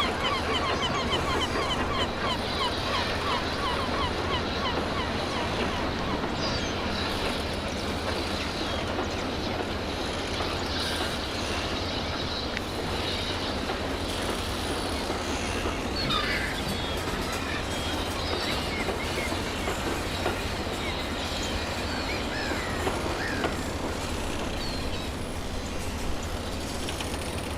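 Steam-era goods train with its wagons rolling along the rails, a steady clatter and rumble, from an added railway sound-effect track. Birds call in quick succession for the first few seconds, with occasional calls later.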